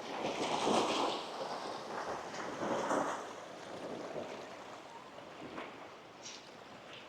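Gentle sea waves breaking and washing up a sandy beach. The surf swells about a second in and again near three seconds, then dies down.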